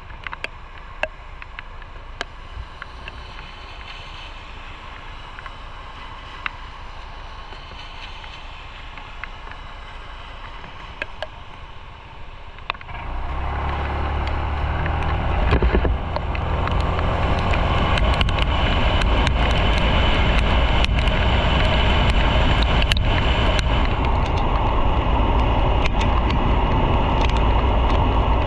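Motorcycle on the move, engine running with road and wind noise. About halfway through it pulls away and the engine and wind noise rise sharply, then hold steady and loud.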